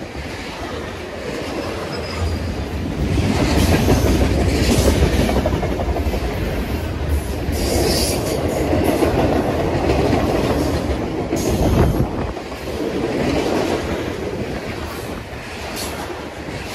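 Freight train cars, tank cars then boxcars and covered hoppers, rolling past close by: a steady low rumble and clatter of steel wheels on the rails. A few brief, sharper high-pitched sounds cut through it now and then.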